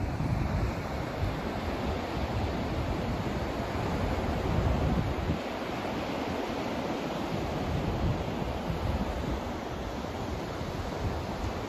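Steady white-noise track: an even rushing hiss, heavier in the low end, where a rumble swells and eases.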